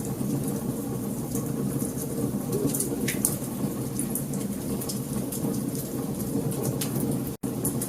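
Wood fire crackling in a fireplace: frequent sharp pops and snaps of burning logs over a steady low rumble of the flames. The sound cuts out for an instant near the end.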